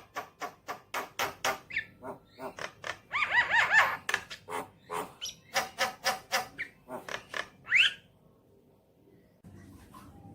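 Javan myna singing: a fast run of short, harsh notes mixed with arching whistled notes, stopping about eight seconds in.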